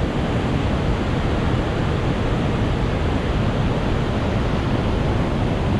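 Waterfall in flood after heavy rain, a huge amount of water pouring over it in a loud, steady, unbroken rush with a deep low rumble.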